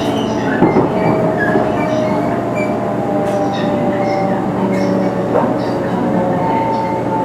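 500 series Shinkansen motor car running, its Toshiba GTO VVVF inverter and traction motors whining over steady running noise. The whine is a few thin tones slowly falling in pitch as the train slows on its approach to a station. A higher tone joins about six seconds in.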